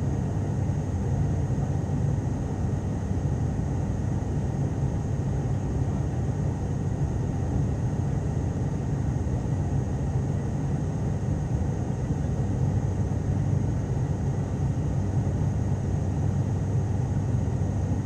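Steady cabin drone of an ATR turboprop airliner in flight: a low, even hum from the engines and propellers under a constant airflow hiss, with a faint high whine held steady throughout.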